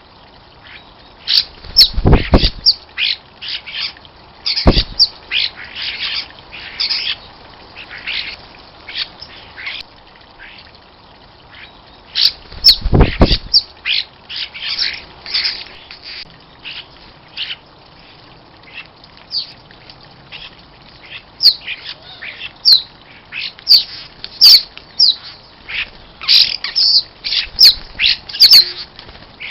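Garden birds calling: a busy, irregular run of short, sharp calls and chirps, with a few brief low thumps mixed in.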